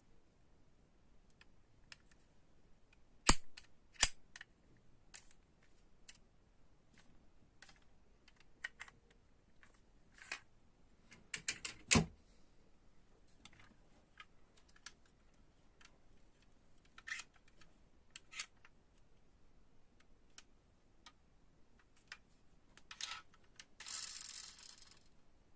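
Scattered light clicks and taps of diecast toy cars and their plastic packaging being handled, with a few sharper knocks and a brief rustle near the end.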